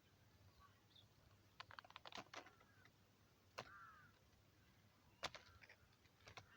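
Near silence, broken by faint sharp clicks: a quick run of them about two seconds in, single ones later. A faint short warbling chirp follows one of the clicks near the middle.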